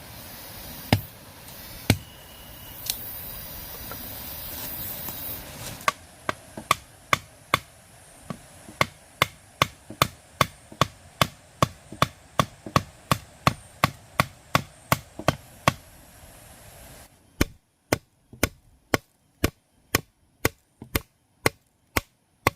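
A hand tool chopping with sharp, repeated strikes: a few spaced blows at first, then a steady run of about two to three strikes a second.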